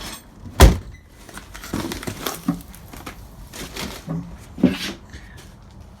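Rustling and handling noise with a sharp thump about half a second in and several softer knocks after.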